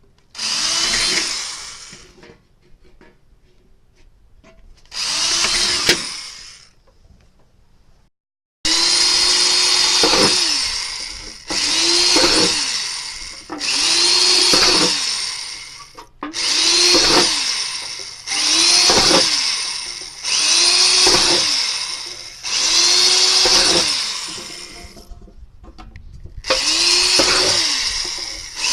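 Electric drill boring holes in the thin metal of a cookie tin, run in about eleven short bursts; in each burst the motor's pitch drops toward the end, then the trigger is released.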